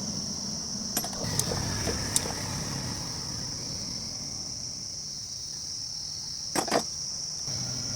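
A few light metallic clinks, three in the first couple of seconds and a quick pair near the end, over a steady high-pitched insect drone.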